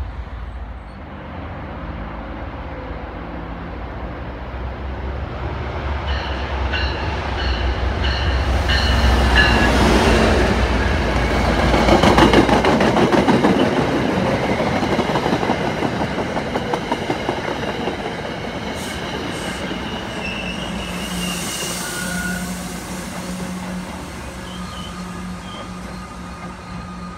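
MBTA Commuter Rail diesel train passing close by: a deep locomotive rumble, then wheels clattering over the rails, loudest about twelve seconds in, fading as the coaches go away. A steady low hum remains near the end.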